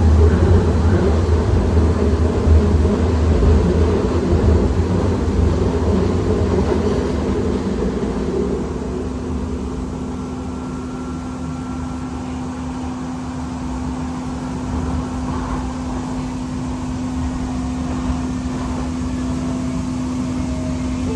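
Siemens S200 light rail vehicle running: a low rumble that eases off over the first half, leaving a steady electrical or ventilation hum.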